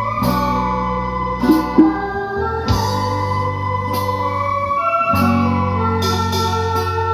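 Electronic keyboard playing sustained organ-style chords over a bass line, the chord changing every two to three seconds, with two short drum hits in quick succession about one and a half seconds in.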